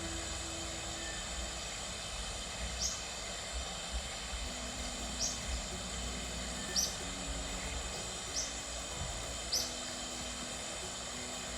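A bird giving short, high call notes about every one to two seconds, six in all, over a steady outdoor hiss.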